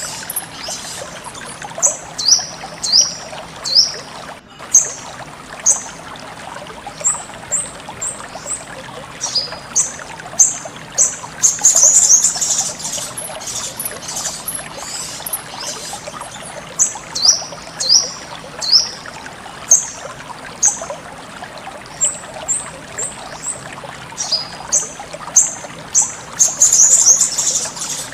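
Sogon songbird calling: repeated high, sharp chirps and short downward-slurred notes in clusters, over a steady trickle of flowing water.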